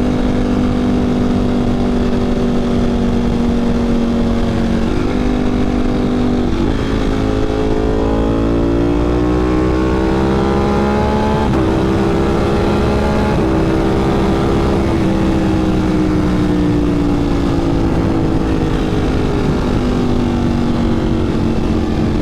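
Ducati Panigale V4's V4 engine through a Competition Werkes GP race exhaust, accelerating hard through the gears. The engine note climbs and then drops sharply at each upshift, about five, seven, twelve and thirteen seconds in, and the exhaust pops on the shifts. Then the note falls away slowly as the bike eases off.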